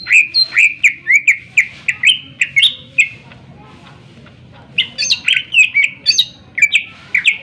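Greater green leafbird (cucak ijo) singing loud, sharp, quickly repeated whistled notes. It sings in two bursts, with a pause of about two seconds between them.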